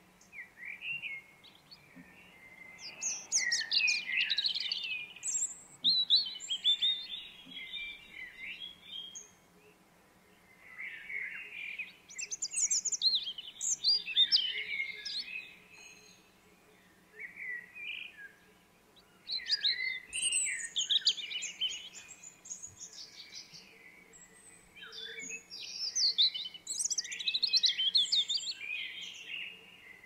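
Birds chirping and singing in busy bouts of rapid, varied chirps, with brief lulls every several seconds.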